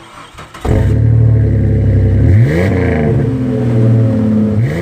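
A vehicle engine running and revved twice, its pitch sweeping up sharply each time. It starts suddenly under a second in, as if cut in.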